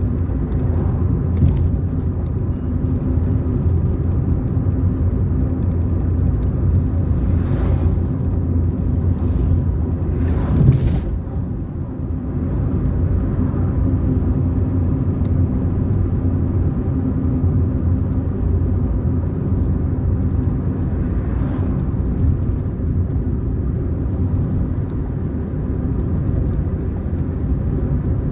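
A car driving along the road, with a steady low rumble of engine and tyres. A few short rushing sounds come and go, and there is a brief louder jolt about ten seconds in.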